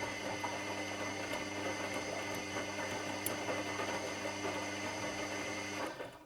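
Washing machine running with a steady motor hum and whir and a few faint clicks, which cuts off suddenly near the end.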